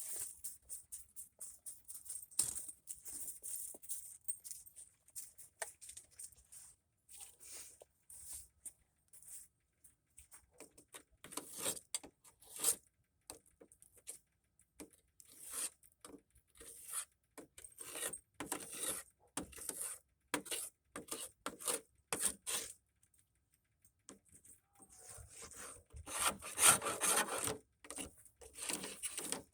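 Ice being rubbed and scraped off the iced-up control panel cover of a backhoe by hand, in irregular strokes that come in bursts, loudest near the end.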